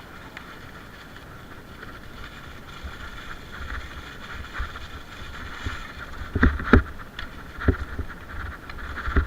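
Mountain bike rolling over a rough forest trail: a steady rolling rattle, with a handful of sharp knocks from jolts over bumps in the second half, the loudest pair about six and a half seconds in.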